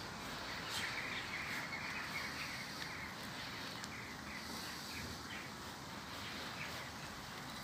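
Outdoor ambience with birds chirping: a quick run of short chirps in the first few seconds, then scattered calls over a steady background hiss.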